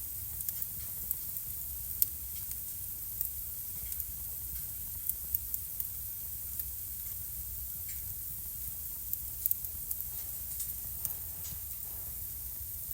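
Wood fire burning in a fireplace: irregular sharp crackles and pops over a steady hiss and low rumble, with the loudest pop about two seconds in.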